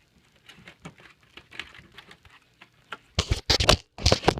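Phone being handled, with faint rustles and clicks, then about three seconds in a run of loud knocks and clatter as the phone is dropped.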